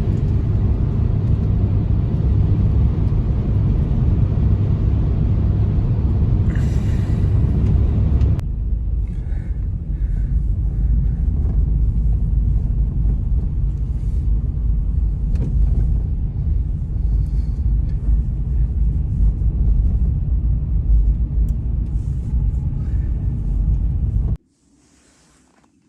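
Strong blizzard wind buffeting the microphone as a steady, heavy low rumble. It changes abruptly about eight seconds in and cuts off suddenly near the end.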